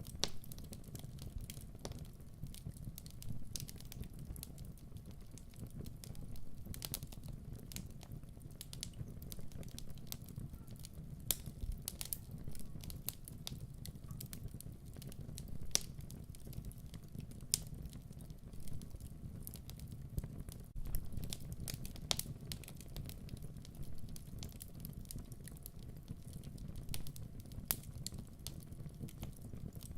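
Wood fire burning in a fireplace: a steady low rumble with irregular sharp crackles and pops from the logs.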